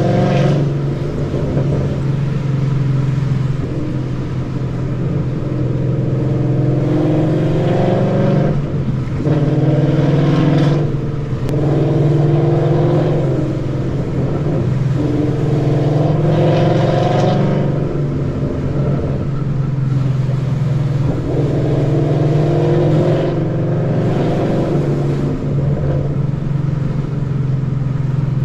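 2013 Ford Mustang GT's 5.0 V8, fitted with long-tube headers and a Roush exhaust, accelerating through the gears. The engine note climbs in several pulls, each dropping briefly at a gear change, over a steady deep drone.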